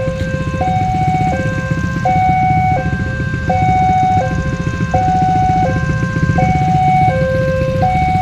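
Railway level-crossing warning signal sounding a steady electronic two-tone alarm, high and low tones alternating about every 0.7 s, which warns that a train is approaching. Under it runs the low rumble of vehicle engines.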